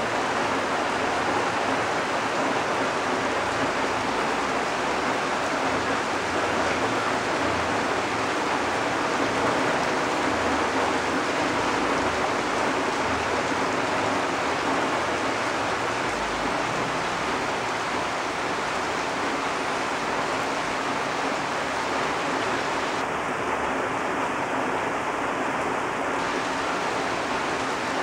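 Rain falling steadily on dense foliage, including broad banana leaves: an even, unbroken hiss.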